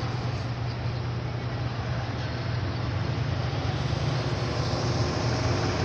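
Steady low mechanical hum with an even hiss over it, unchanging: a motor running.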